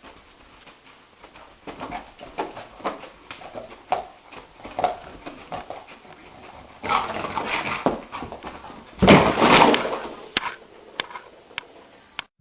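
A dog whimpering in a run of short cries, followed by two louder, noisier stretches.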